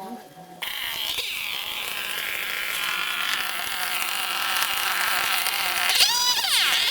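Small petrol-engine garden tool, such as a brush cutter, starts buzzing abruptly and runs steadily, with its engine revving up and falling back about six seconds in.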